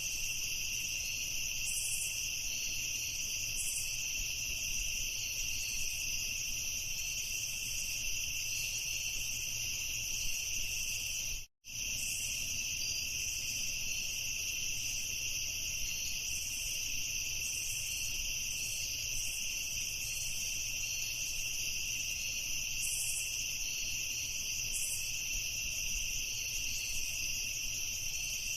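A dense chorus of crickets chirping in a steady high trill. It cuts out completely for a fraction of a second about eleven seconds in, then resumes unchanged.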